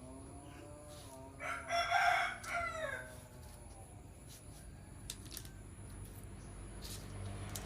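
An animal's call, once, lasting about a second and a half, with a pitch that rises and then falls at its end. A low hum starts to build near the end.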